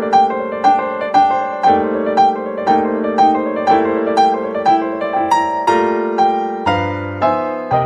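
Upbeat background music led by piano or keyboard: a bright melody of quick, evenly paced notes over held chords.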